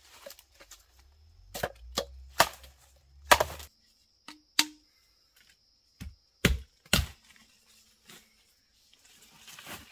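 A blade chopping into wood: about eight sharp, irregularly spaced strikes.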